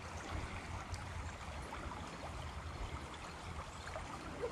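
Creek water running steadily, swollen after rain.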